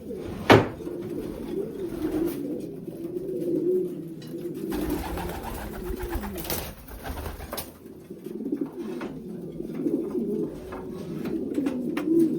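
Racing pigeons cooing continuously in a small loft, a low wavering coo that goes on throughout. A single sharp knock about half a second in is the loudest sound, and there is a stretch of rustling around the middle.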